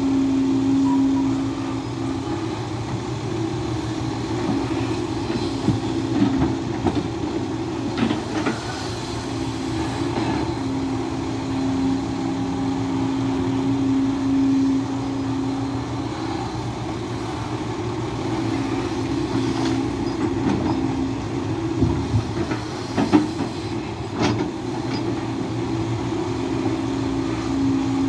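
SANY SY215C excavator working a load of clay, its diesel engine and hydraulic pump running under load with a steady hum that swells and eases as the machine works. A few sharp knocks come through, about eight seconds in and twice more near the end.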